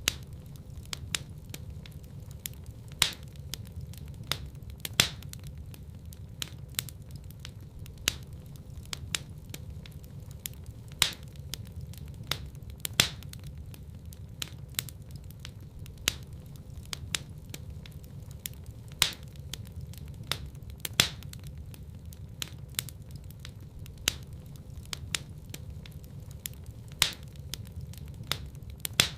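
Wood fire crackling in a fireplace: frequent small snaps and pops, with a louder crack every couple of seconds, over a steady low rumble of burning.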